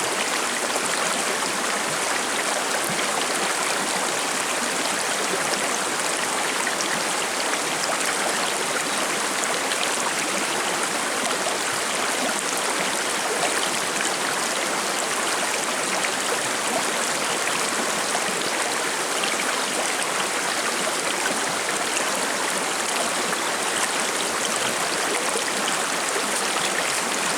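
Forest river's shallow water babbling and gurgling over stones, a steady, even rush.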